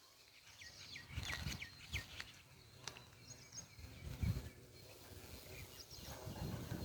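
Outdoor ambience with small birds chirping in short, quick notes, and a few low thumps on the microphone about one, two and four seconds in.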